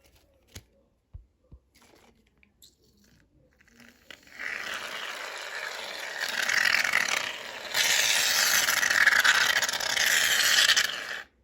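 Aerosol can of shaving foam dispensing with a long hiss, easing briefly about halfway through, then louder until it cuts off sharply, after a few faint clicks.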